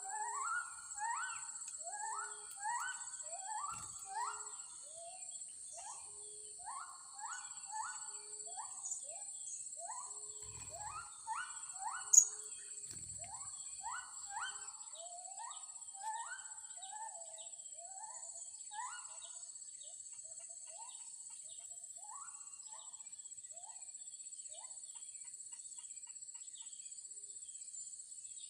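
A flock of blue-crowned hanging parrots (serindit) calling in quick short rising chirps, thick at first and thinning out towards the end, over a steady high insect drone. One sharp click about twelve seconds in.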